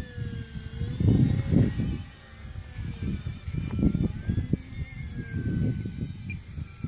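Night Visionaire RC model airplane's motor and propeller whining overhead, the pitch slowly sliding up and down as it flies, under an irregular low rumble of wind on the microphone.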